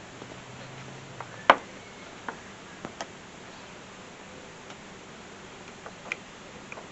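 Irregular clicks and light knocks, about half a dozen, with the sharpest and loudest about a second and a half in. A faint low hum stops just before it.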